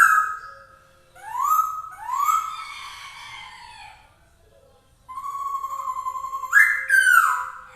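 Masked laughingthrush (poksay hongkong) singing loud whistled notes: a short rising whistle about a second in, a longer note that rises and falls, then after a pause a held note that jumps up and slides back down near the end.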